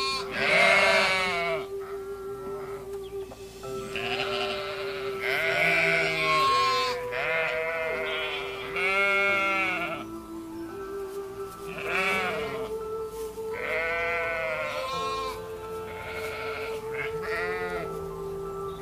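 Sheep bleating again and again, about ten bleats spaced irregularly, over background music with steady held tones.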